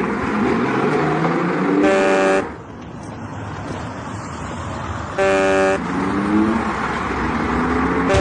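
Traffic with two short vehicle-horn blasts about three seconds apart, over steady engine noise in which a motor's pitch climbs.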